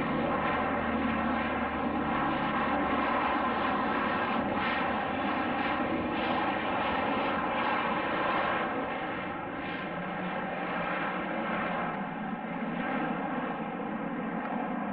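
Fixed-wing aircraft engines running steadily, a dense drone of many held tones over a rush of noise, easing a little after about nine seconds.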